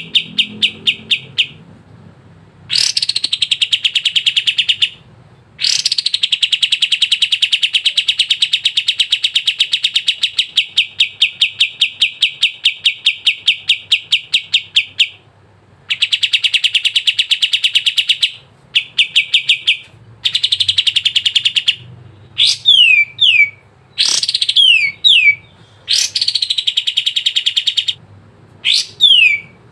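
Kapas tembak songbird singing loudly: long, very fast trills of repeated high notes, some lasting several seconds, broken by short pauses. From about two-thirds of the way in, shorter phrases of sharply falling whistled notes.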